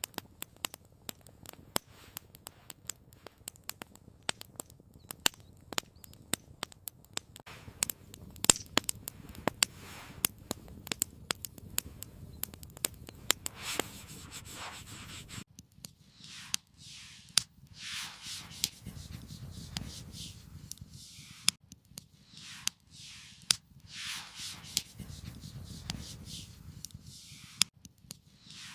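Campfire crackling, with many sharp pops and snaps through the first half. From about halfway the crackle thins and a series of rubbing, scraping sounds comes and goes every second or so.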